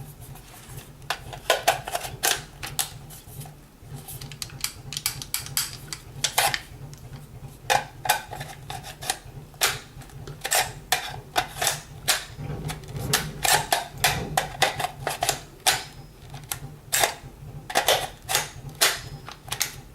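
Irregular plastic and metal clicks and clacks of an airsoft carbine's magazine being pushed and worked at the magazine well, the magazine hard to seat. A steady low hum runs underneath.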